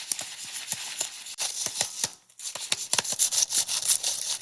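Jiffy Pop popcorn popping in its foil pan: many quick sharp pops over a steady hiss, with a short lull about two seconds in.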